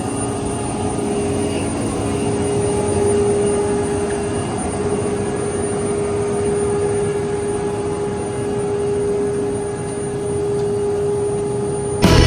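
Steady running noise of aircraft machinery on the parked Embraer KC-390, a constant mid-pitched hum over a broad rush. Loud rock-style background music cuts in just before the end.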